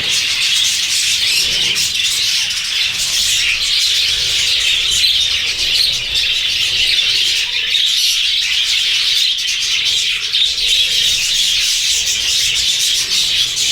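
A flock of budgies chattering and chirping together, a dense unbroken mass of many overlapping high calls.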